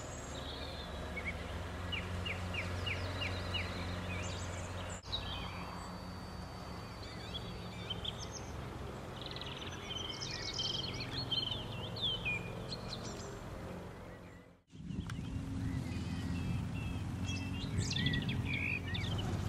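Small birds singing and chirping over a steady low rumble, including a quick run of about seven evenly spaced chirps near the start; the sound drops out briefly just before the last few seconds.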